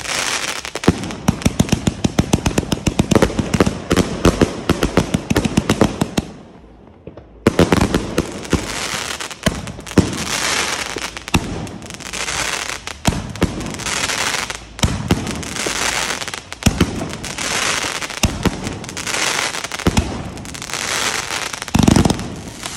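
Consumer firework cakes firing. A fast string of shots runs for about six seconds, then there is a short lull. After that come more shots with repeated bursts of crackling.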